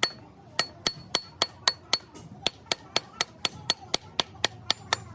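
Hand hammer striking metal in a steady run of blows, about four a second, each with a short bright ring, with a brief gap just after the start.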